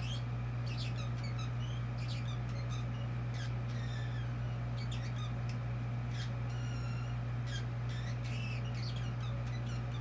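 Caged pet bird chattering: a scattered run of short chirps, clicks and squeaks, a few with a brief whistled tone, over a steady low hum.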